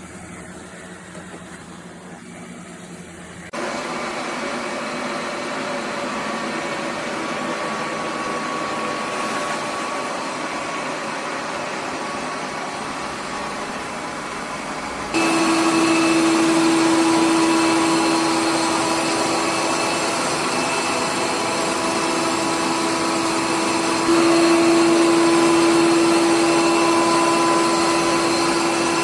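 Roborock Q7B+ robot vacuum running, a steady motor-and-suction noise. It steps up in loudness about four seconds in and again about halfway through, when a strong steady hum comes in.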